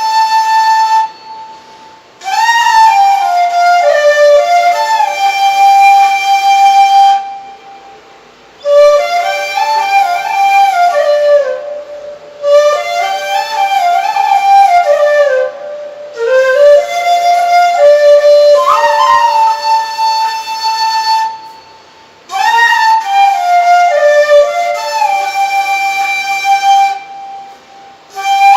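Solo flute playing a slow melody in phrases of a few seconds, each ending in a short pause, with small grace-note slides into the first notes.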